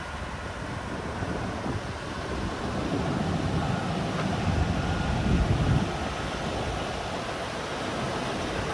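City street ambience: a steady wash of traffic noise, swelling from about three to six seconds in as vehicles pass, with some wind on the microphone.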